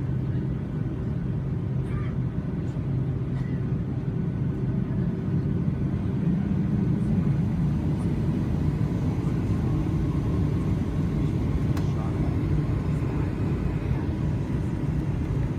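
Steady low rumble in the cabin of a Boeing 757 on the ground before takeoff, its engines running at idle, with a few faint ticks.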